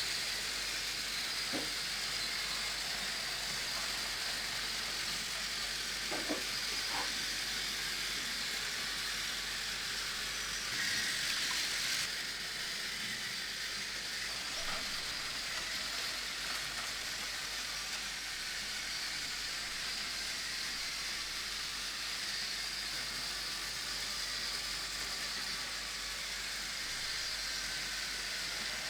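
Battery-powered Plarail toy train running on plastic track: a steady whir and rattle, with a brief louder stretch about eleven seconds in.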